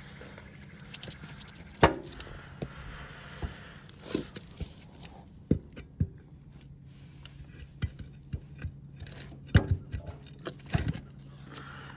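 Scattered metallic clicks, clinks and knocks of hands and tools working on a garden tractor's wheel hub, the loudest about two seconds in and a cluster near the end, over a steady low hum.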